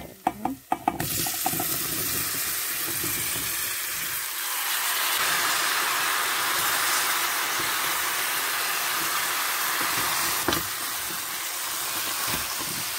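Washed, still-wet papaya cubes tipped from a steel bowl into hot oil and spices in a cooking pot: a few clatters as they drop, then a steady sizzling hiss as the water on them hits the oil and they start to fry. A single knock comes about ten seconds in.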